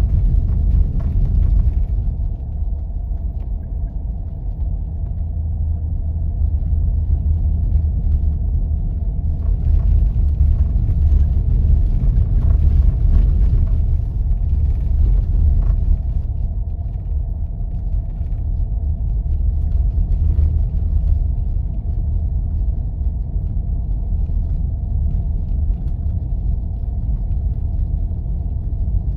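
A 4x4 driving on snowy roads: a steady low rumble of engine and tyre noise, with added hiss from about 9 to 16 seconds in.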